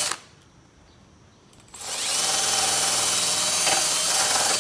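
Power drill working against metal to clear corrosion off screws. It cuts out just after the start, then spins up again with a rising whine about two seconds in and runs on steadily.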